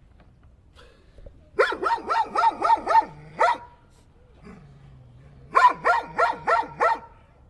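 A dog barking in two quick runs: about seven barks, a pause of about two seconds, then about five more.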